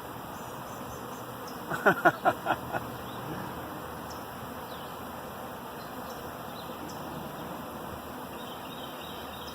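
Honeybee swarm buzzing steadily around and on a nuc box. About two seconds in, a person's voice breaks in briefly with a quick run of about five short sounds, like a laugh.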